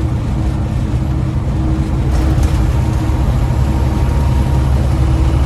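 Diesel engine of a semi truck loaded with sand, running steadily under way as a low drone, heard from inside the cab.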